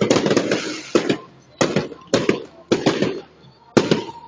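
Fireworks shells bursting in a rapid string of sharp bangs, about one every half second, each followed by a brief echoing tail.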